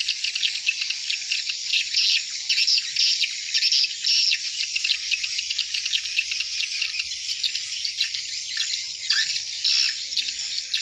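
Many swiftlets chirping at once: a dense, unbroken high-pitched chatter of short calls.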